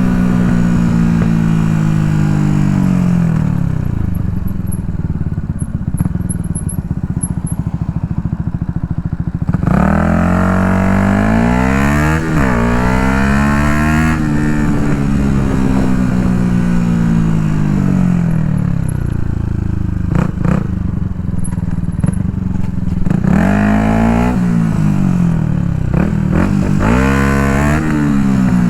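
2016 Yamaha MT-125's single-cylinder four-stroke engine breathing through an Akrapovic full exhaust while ridden. The revs fall away to a low steady note, then climb hard about a third of the way in, with a quick dip in pitch between rises, and slowly wind down. Near the end they rise and fall again in short bursts.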